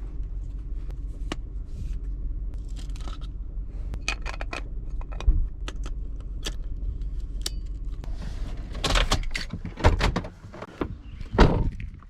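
Steady low rumble of a car with scattered clicks, scrapes and a jangle of keys; the rumble cuts off near the end.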